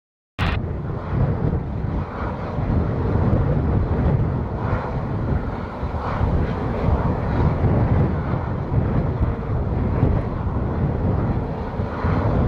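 Embraer KC-390's twin turbofan engines running, mixed with a heavy, gusting rumble of strong wind on the microphone.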